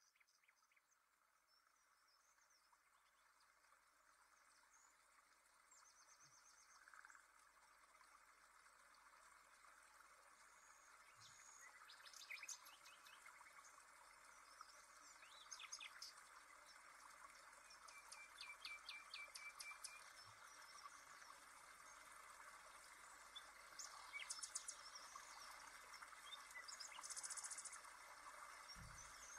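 Faint birds chirping in quick series over a steady hiss, the whole fading in slowly from silence, with a short buzzy trill near the end.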